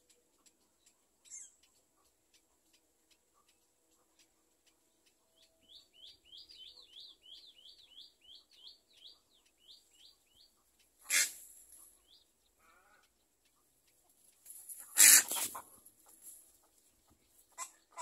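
Bird calls: a run of quick, high chirps, about three or four a second, for some five seconds, then two loud harsh squawks a few seconds apart, the second one longer, over faint regular ticking.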